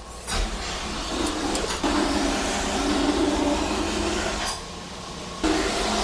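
Steady noise of a powered grinding or sharpening machine working a knife blade. It eases off about four and a half seconds in and picks up again about a second later.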